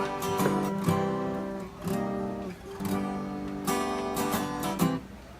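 Background music: an instrumental passage of strummed acoustic guitar chords, struck again every second or so.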